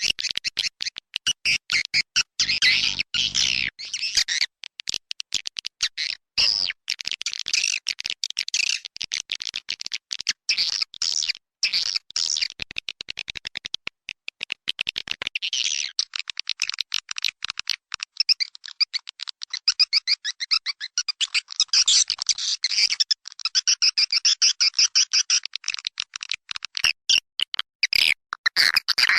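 Swiftlet lure call (suara panggil): a recording of edible-nest swiftlets' rapid high twittering and chirping, the call track played in swiftlet houses to draw the birds in to roost and nest. The chirping is thick and unbroken, running denser and higher from about halfway through.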